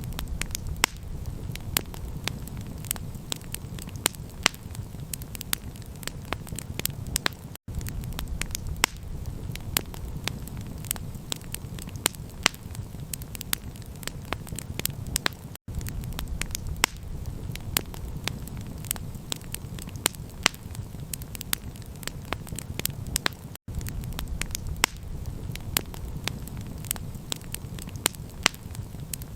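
Wood campfire crackling, with many sharp pops over a steady low rumble. The sound drops out for a moment about every eight seconds.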